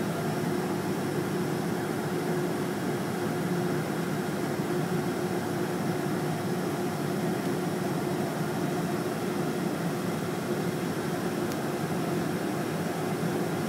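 Boeing 747-438ER airliner running at a steady low power, heard as an even rushing noise with one constant hum and no rise or fall.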